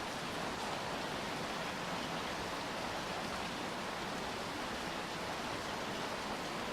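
Steady rainfall: an even hiss of rain falling on surfaces, with no distinct drips or gusts standing out.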